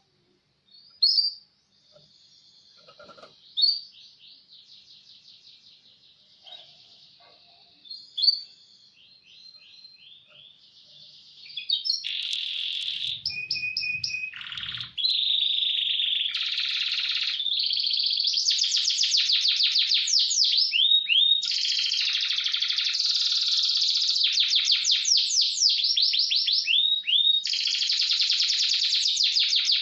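Domestic canary singing: scattered chirps and short trills for about the first twelve seconds, then loud, almost unbroken song of fast rolling trills and rapid repeated notes.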